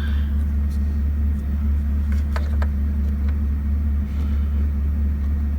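A 2003 Chevy Silverado's LM7 5.3-litre V8 idling steadily, with a few light clicks a little over two seconds in.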